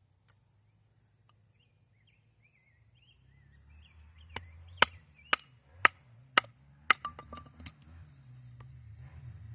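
Wood being chopped at camp: five loud, sharp strikes about two a second, followed by several lighter taps.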